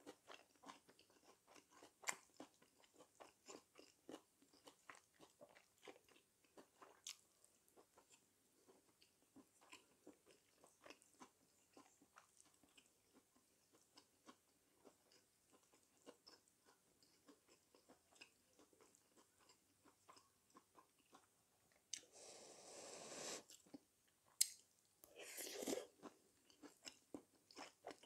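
Close-up chewing and biting sounds of a person eating spicy stir-fried chicken and vegetables, a steady run of small wet clicks and crunches. Near the end there are two longer, louder noisy sounds of about a second each.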